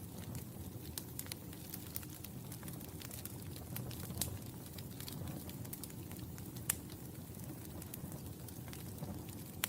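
Wood fire burning in a fireplace: a steady low rumble of flames with frequent irregular crackles and sharp pops, one louder pop about two-thirds of the way through.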